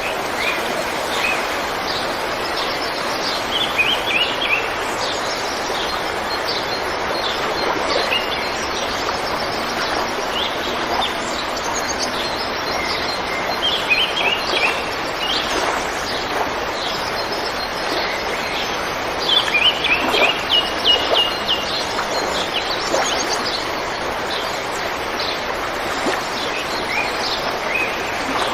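River water flowing steadily, with birds chirping over it in quick series of short, high notes that come and go, loudest in a run of chirps about two-thirds of the way through.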